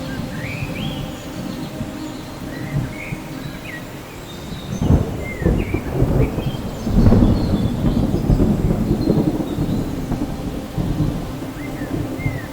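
Thunderstorm: steady rain with thunder rolling and crackling, building about five seconds in and loudest around seven to nine seconds before easing off. A few short high chirps sound over it.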